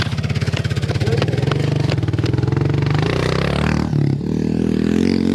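Dirt bike engine running at idle with a fast, even beat, then revving up about three seconds in and holding at higher revs.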